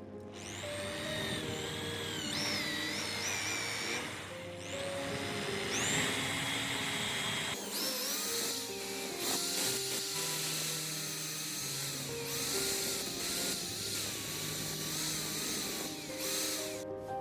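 Small electric power tool whining, its pitch sagging and rising as it works, over background music. It pauses briefly about four seconds in and changes tone about halfway through.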